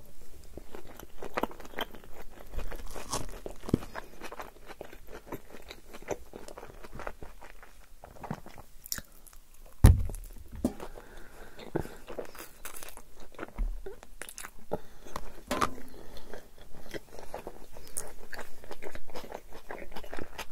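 Close-miked chewing of yogurt tantuni: a run of small crunches, wet clicks and smacks as the food is bitten and chewed. One much louder knock about halfway through.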